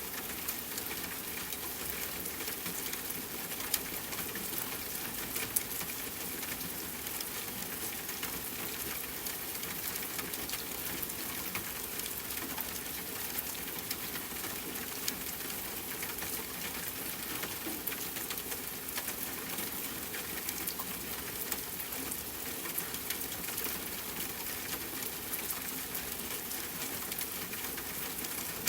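Steady rain falling, mixed with a campfire's crackling: a constant hiss with frequent small sharp pops and ticks scattered through it.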